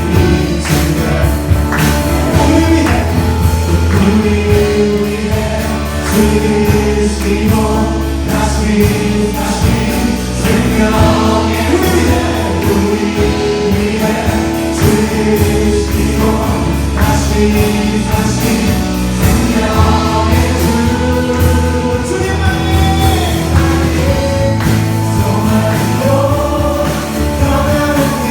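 A praise team singing a worship song together over a band, with a steady bass line and a regular drum beat.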